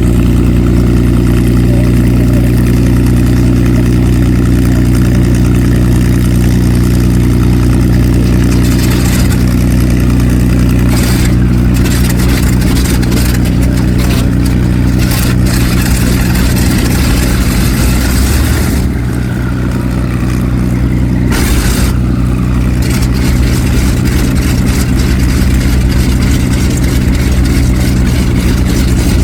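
Pratt & Whitney R-2800 eighteen-cylinder radial engine of an F4U Corsair running steadily at low power with a deep, even drone, easing off slightly for a moment about two-thirds of the way through.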